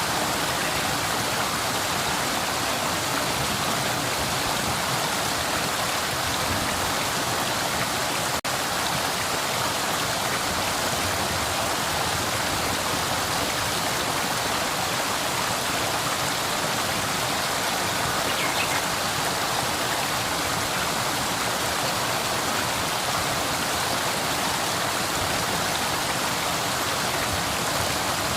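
Flowing river water rushing steadily, an even hiss with no change in strength, broken only by a brief click about eight seconds in.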